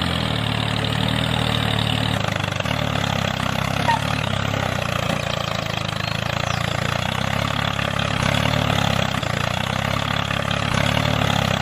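An engine running steadily at an even speed, a low, unchanging drone.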